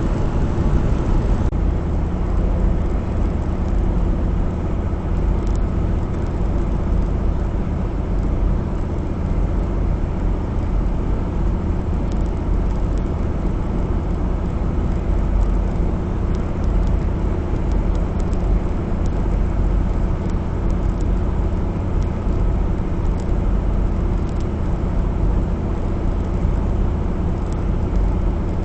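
Steady drone of a Western Star semi truck's diesel engine and road noise, heard from inside the cab while it drives at speed.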